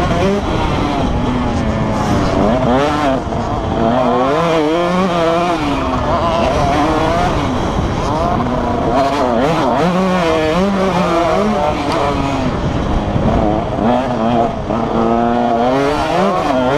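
Several motocross bikes racing on the track, their engines revving up and down in overlapping waves as they accelerate and shift.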